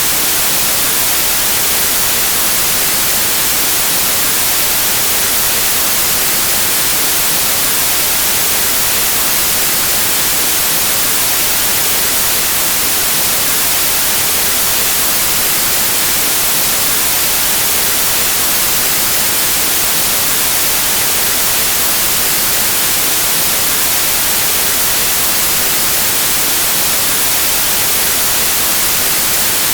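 Steady white noise: an even, unchanging hiss of static, brightest in the treble, with no other sound.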